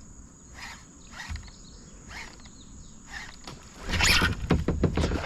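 Short rasping strokes about twice a second, a fishing reel being cranked as the frog is worked back, then about four seconds in a loud splashing burst lasting about a second: a bass striking the topwater frog at the surface.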